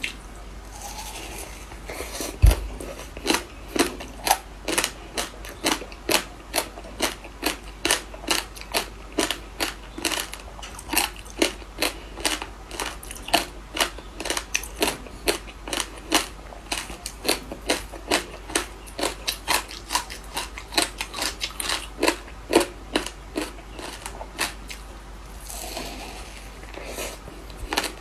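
Frozen passion fruit ice being bitten and chewed close to the microphone: a steady run of sharp crunches, two or three a second.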